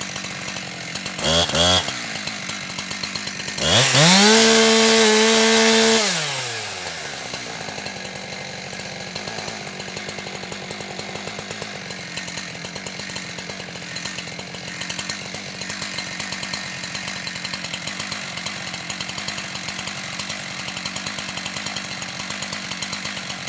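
Two-stroke chainsaw idling, blipped briefly about a second in, then opened up to full throttle for about two seconds before dropping back to a steady idle for the rest of the time.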